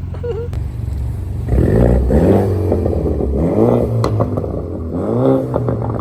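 Straight-piped four-cylinder BMW 420i exhaust idling, then revved in several quick blips from about a second and a half in, the pitch rising and falling with each blip.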